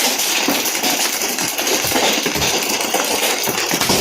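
Heavy rain and large hail pelting down: a dense, steady hiss of rain with frequent sharp knocks of hailstones striking hard surfaces.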